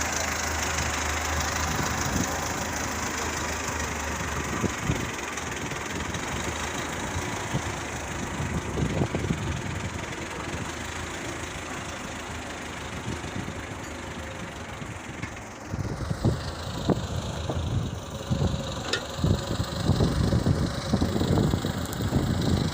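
An engine idling steadily; from about fifteen seconds in, uneven low rumbling and a few knocks join it.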